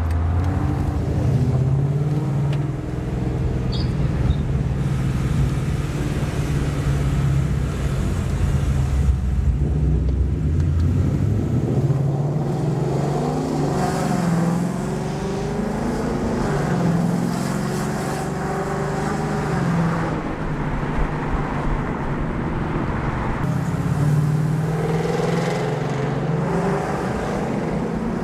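Car engine running continuously, its pitch rising and falling.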